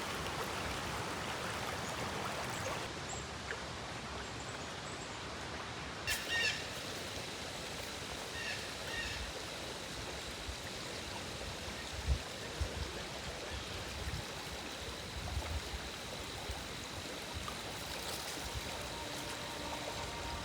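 River water flowing steadily, with a few short high bird chirps about six and nine seconds in and occasional low thuds.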